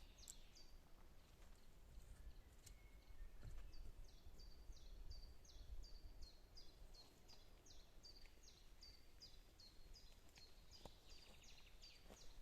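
A small songbird singing faintly: a long series of short, high, falling notes, about two a second, over a faint low rumble of wind.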